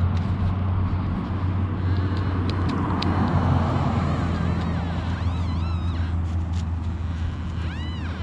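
XP Deus metal detector with an X35 coil giving warbling target tones that rise and fall, a few times around the middle and again near the end, as the coil sweeps over a junky, foil-like target in trashy ground. A steady low rumble runs underneath, with a few sharp clicks a couple of seconds in.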